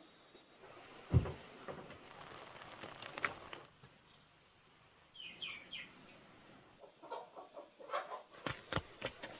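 Chickens clucking, with a heavy thump about a second in and a cluster of sharp knocks and clicks near the end.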